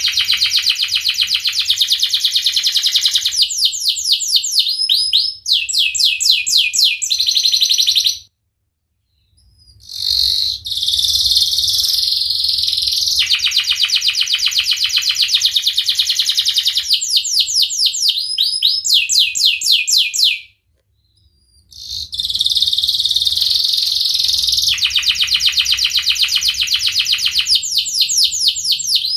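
Domestic canary singing a long, loud song of rapid trills and series of quick sweeping notes, broken by two short pauses about eight and twenty seconds in.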